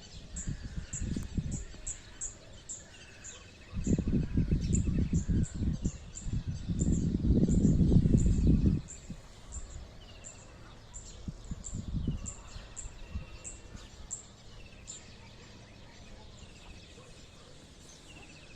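Small birds singing: a short trilled phrase repeated every couple of seconds and quick high chirps over it. Bursts of low rumbling noise come in between about four and nine seconds in.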